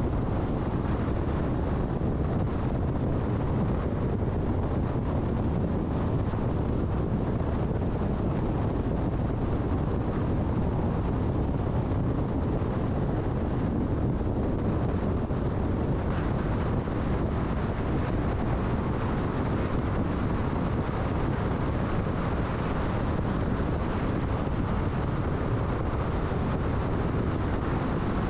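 Steady road and wind noise of a car cruising at freeway speed: an even rush with no change in level.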